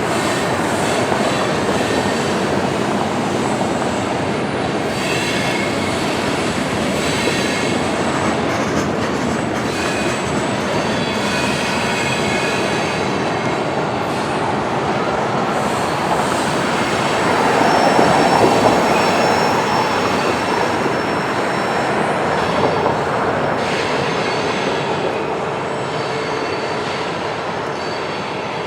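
Freight train cars rolling past on steel rails, with wheel squeal coming and going over a steady rumble. It is loudest about two-thirds of the way through and eases slightly near the end.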